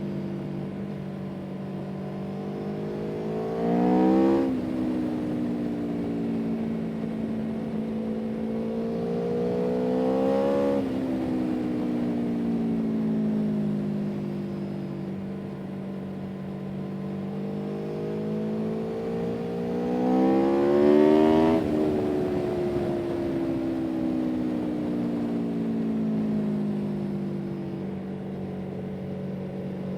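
A motor vehicle's engine running steadily under way. Its pitch climbs and then drops suddenly three times, about four, eleven and twenty-one seconds in, with slow drifts up and down between.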